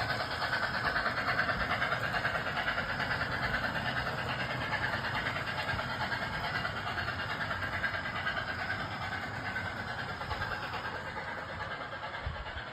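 Model train running along the layout's track: a steady rolling rattle of wheels and motor that slowly fades toward the end.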